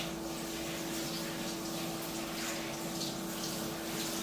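Warm water running steadily, an even hiss, with a steady low hum underneath.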